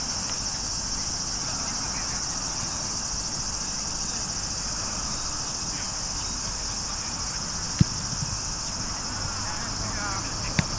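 Steady high-pitched chorus of insects, with faint distant voices and two sharp thumps, about eight and ten and a half seconds in.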